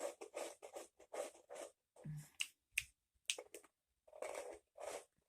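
Someone chewing crunchy gingerbread, in short, quick, crisp crunches with brief pauses between bites.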